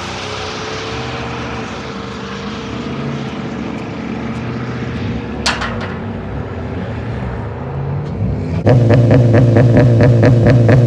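A vehicle engine running steadily, with a single click about five and a half seconds in. Near the end a much louder sound with a fast, even pulse cuts in abruptly.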